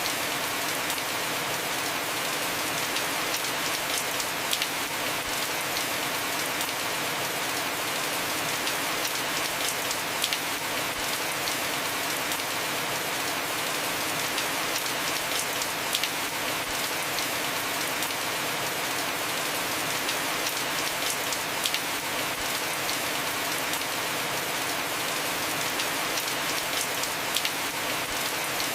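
Heavy rain falling steadily on a roof, a dense even hiss with scattered sharper drop ticks.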